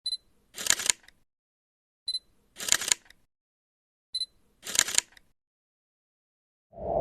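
Camera shutter sound three times, about two seconds apart, each preceded by a short high beep. Near the end a deeper ping starts and rings on, slowly fading.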